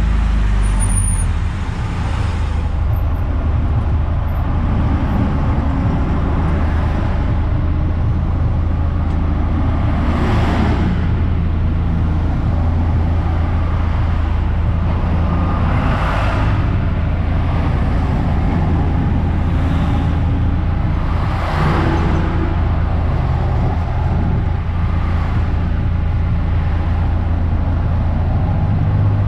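Eunos Roadster (Mazda MX-5) on the move: a steady low engine drone with road and tyre noise, which swells three times, and a pitch change in the engine note about a second and a half in.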